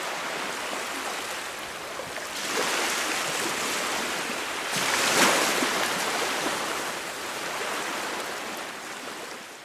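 Small lake waves washing against a rocky shore: a steady rush of water that swells a couple of seconds in, is loudest about halfway through, and fades away near the end.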